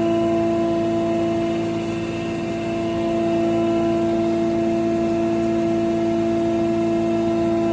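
Animal feed pulveriser machine running at a steady speed: a continuous mechanical hum with a strong, unchanging tone.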